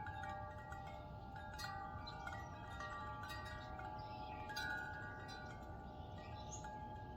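Wind chimes ringing in a breeze: several pitched tones struck at irregular moments, each ringing on and overlapping the next.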